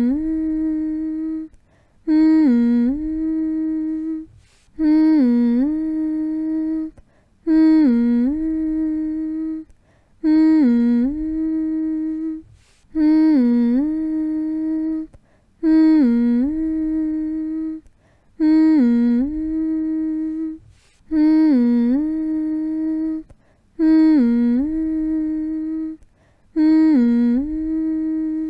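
A voice humming the same short phrase over and over as a lulling sound for a baby. Each hum lasts about two seconds: a quick dip in pitch, then a held note, followed by a brief pause. The hums repeat about every two and a half seconds with no change.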